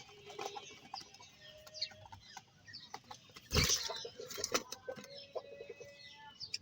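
Several birds chirping and calling, many short notes overlapping. About three and a half seconds in there is a sudden loud rush of noise, and near the end a quick string of short low notes.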